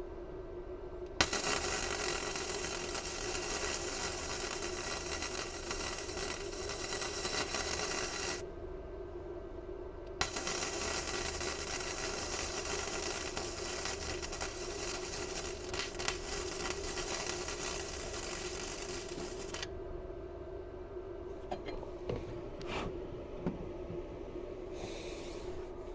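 Welder arc crackling and hissing in two long weld runs, the first about seven seconds and the second about nine, with a short pause between, as a steel patch is welded into a Jaguar XK chassis rail; a steady low hum underlies it.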